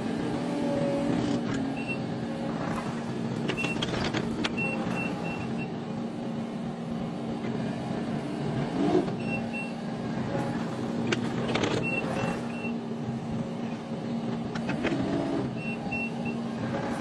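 Skid steer loader running steadily with an earth auger attachment, its engine giving a constant hum. Short high beeps sound in small groups now and then.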